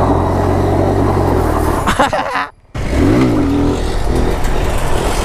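Small 125 cc single-cylinder mini bike engine revving under throttle for a wheelie attempt. The pitch climbs and holds, the sound cuts out briefly about two and a half seconds in, then the engine revs up and back down once before settling.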